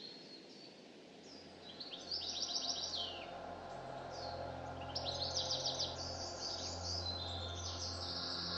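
Songbirds singing, with fast trilled phrases about two seconds in and again from about five seconds, over a low steady drone.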